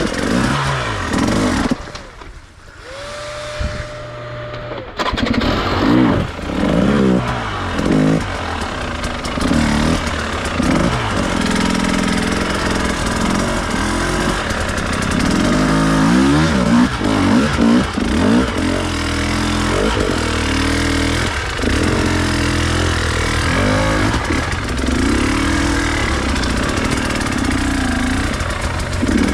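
Enduro dirt bike engine revving up and down over and over as the throttle is worked. About two seconds in it drops away for roughly three seconds, with a thin steady whine, then picks up again and keeps running.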